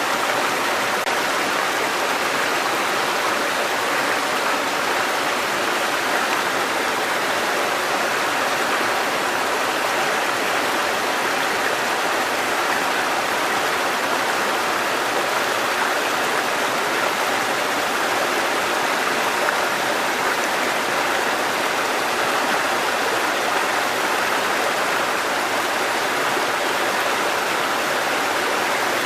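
Water cascading down a mountain stream over rocks, a steady rushing.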